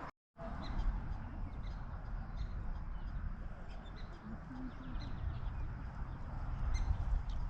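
Outdoor ambience: wind rumbling on the microphone, with scattered faint, short, high-pitched animal chirps.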